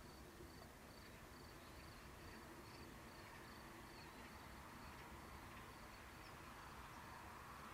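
Near silence with a faint cricket chirping steadily, about two chirps a second. Near the end a distant aircraft engine sound starts to swell.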